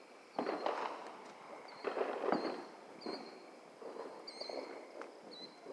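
Distant fireworks going off in several irregular sharp crackling bursts, the loudest about half a second and two seconds in, with fainter pops later.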